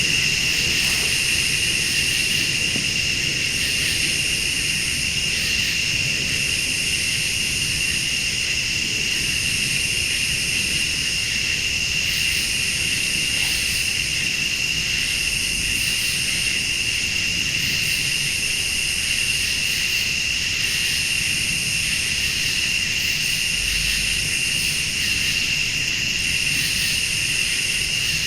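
A night chorus of crickets and late-summer insects: a steady, shrill high trill, with a still higher insect call switching on and off about every couple of seconds. A faint low rumble runs underneath.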